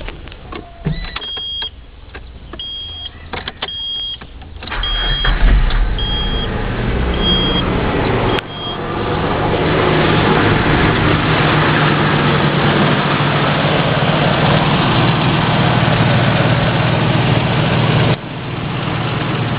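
Nissan VG33E 3.3-litre V6 engine cranked by its starter and catching, then idling steadily; the starter engages after being tapped with a breaker bar, showing the no-crank fault lies in the starter. A dashboard warning chime beeps about once a second through the first several seconds, and the idle drops a little in level near the end.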